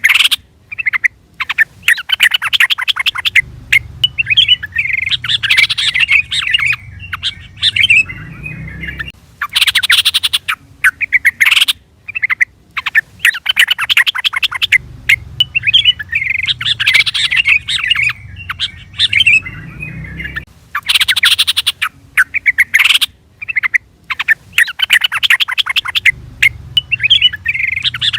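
Yellow-vented bulbul calls: bursts of fast, harsh chattering alternating with bubbling warbled phrases. The same sequence repeats about every eleven seconds, a looped call recording.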